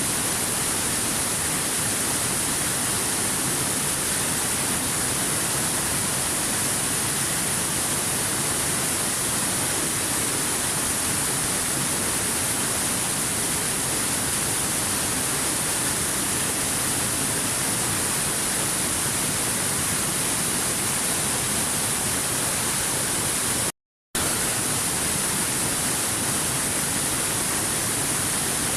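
Waterfall: a steady, unbroken rush of falling water, cut by a brief gap of silence about three quarters of the way through.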